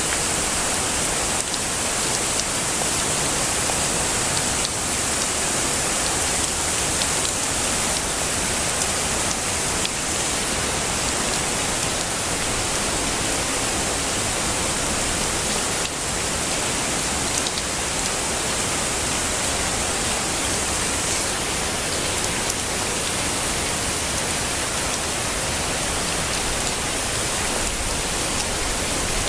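Heavy rain falling steadily, an even hiss strongest in the high end.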